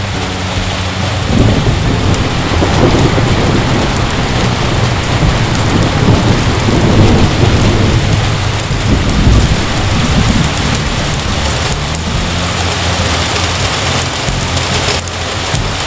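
Heavy rain falling steadily, with a long roll of thunder that builds about a second in and rumbles on for several seconds before easing.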